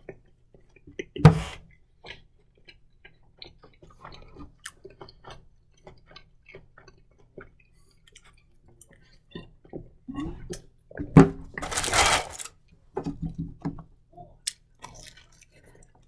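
A person chewing food, with many small wet mouth clicks. A loud sudden noise comes about a second in, and a longer, louder burst of noise around eleven to twelve seconds in.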